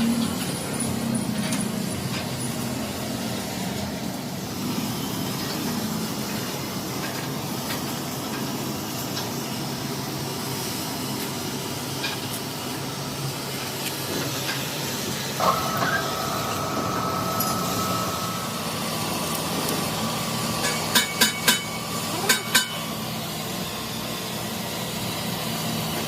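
Workshop machinery running with a steady low hum. A high steady whine joins about halfway through, and near the end comes a quick run of about five sharp knocks.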